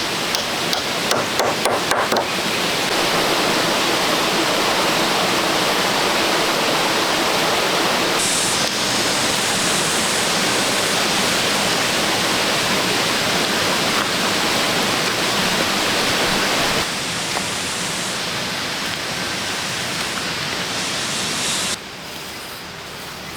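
A few sharp knocks, then steady rushing of running water that drops in level abruptly twice near the end.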